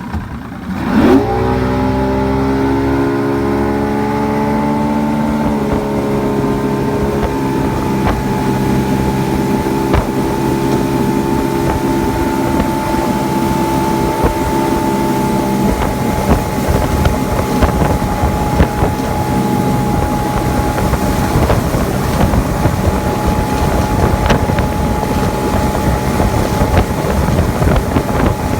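19-foot Grady-White motorboat's engine throttling up hard about a second in as it pulls a slalom skier out of the water, then running steadily at towing speed, with wind buffeting the microphone.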